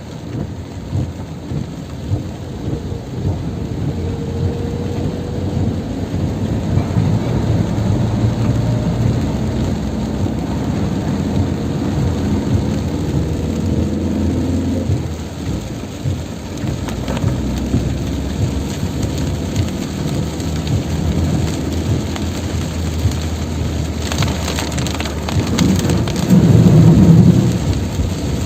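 Heavy tropical downpour with a steady low rumble beneath it. A faint thin whine runs through the middle, and the rumble swells louder for a couple of seconds near the end.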